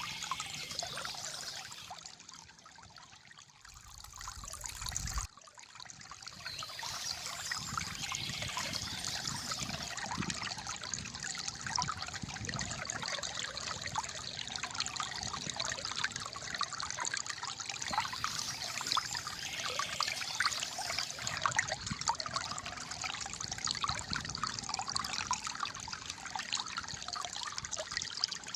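Shallow flowing water trickling and gurgling steadily. It grows quieter about two seconds in and changes abruptly near five seconds, then runs on evenly.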